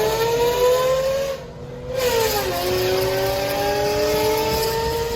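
High-performance car engine and exhaust under hard acceleration, its pitch rising. About a second and a half in, the throttle lifts and the sound dips briefly for an upshift. The revs then fall and climb steadily again in the next gear.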